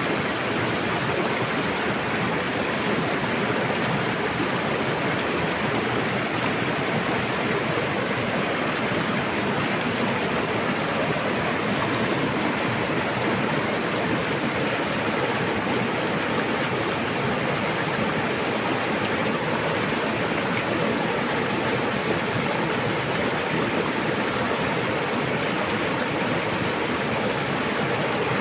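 Fast-flowing river rushing steadily, a constant dense roar of water.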